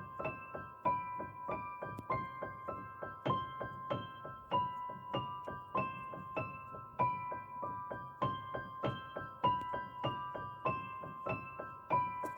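Background piano music: a light electric-piano tune of evenly paced, steadily repeating notes.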